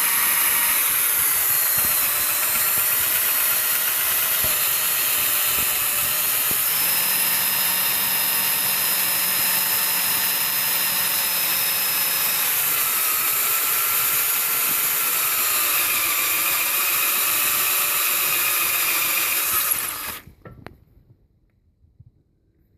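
Power drill running steadily, a general-purpose bit cutting into a broken exhaust manifold bolt at slow speed, its whine wavering slightly in pitch. It stops suddenly about twenty seconds in.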